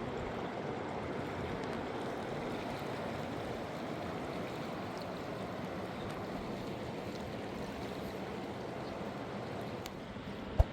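Mountain river rushing steadily, a constant noise of flowing water.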